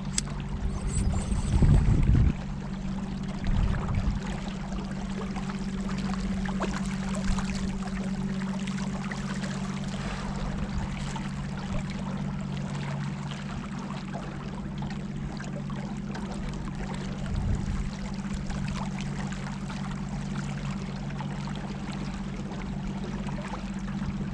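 Boat motor running at a steady pitch under the rush and splash of water along the hull. Gusts of wind hit the microphone a couple of seconds in and again later.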